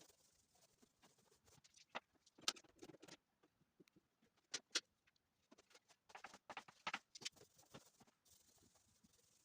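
Faint, scattered taps and rustles, with a few sharper clicks around two and a half seconds, near five seconds, and a cluster between six and seven seconds.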